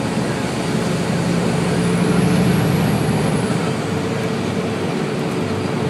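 Steady road and engine noise inside the cab of a moving truck, with a faint high whine that rises and falls.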